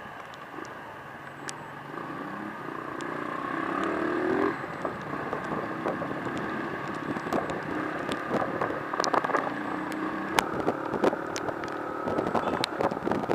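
Vehicle engine heard through an action camera's built-in microphone, rising in pitch for the first few seconds and dropping sharply about four and a half seconds in, then running steadier. Scattered sharp ticks and taps become more frequent near the end.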